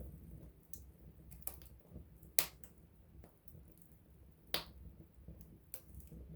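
Campfire crackling: irregular sharp pops and snaps of burning wood, the two loudest about two and a half and four and a half seconds in, over a soft low rumble.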